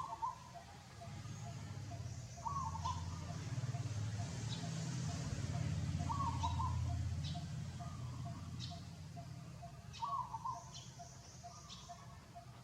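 A bird's short call repeating every two to four seconds over a fast, even faint pulsing, with sharp high ticks and a low rumble that swells in the middle.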